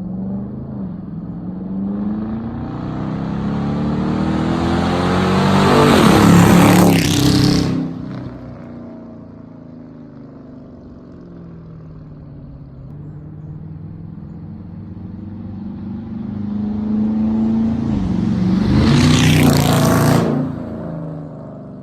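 Hemi V8 Dodge with a mid-muffler delete and Dynomax mini race mufflers in place of the resonators, accelerating past twice. Each time the exhaust builds up over several seconds, peaks about 7 s and 20 s in, then falls in pitch and drops away quickly, with a lower, steady engine sound between the two passes.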